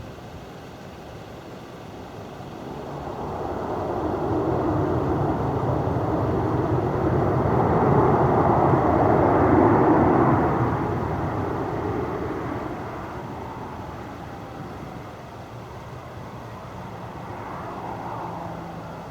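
Jet airliner passing: the engine noise swells over several seconds, peaks about eight to ten seconds in, then fades, with a smaller swell near the end.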